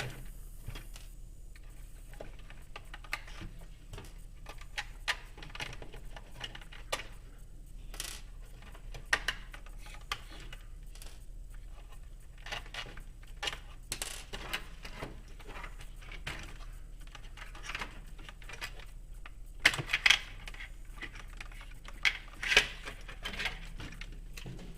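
Scattered small clicks and metal clinks as wire body clips are pulled, a cover screw is taken out and the plow is unhooked from a Kyosho Blizzard RC snowcat, with a few louder clacks near the end.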